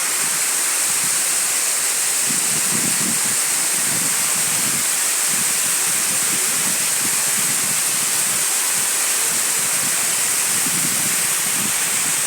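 Waterfall, a steady rushing of falling water.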